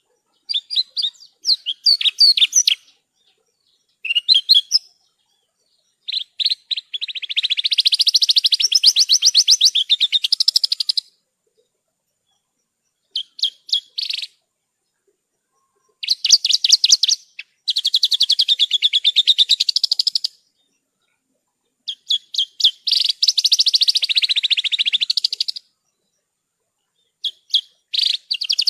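Horsfield's bush lark (branjangan) singing: phrases of rapid, fast-pulsed trills and sharp chirps, each from under a second to about five seconds long, with short silent pauses between them.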